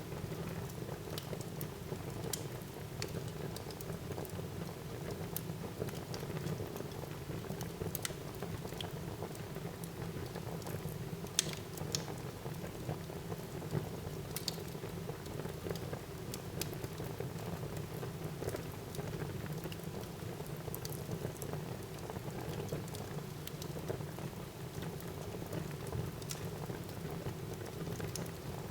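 Wood fire burning in a fireplace: a steady low rush of flame with scattered sharp crackles and pops, one louder pop about eleven seconds in.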